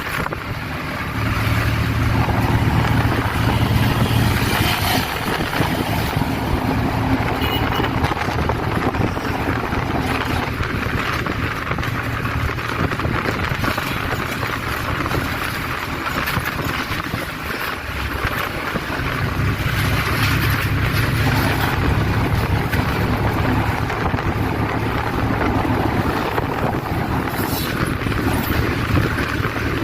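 Three-wheeler auto-rickshaw's small engine running at speed, with wind noise on the microphone. The engine note grows louder a second or two in and again about two-thirds of the way through.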